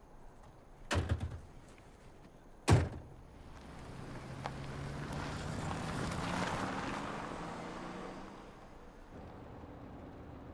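Two car doors shut, about two seconds apart, then a car engine runs up, rising in pitch and level before fading away.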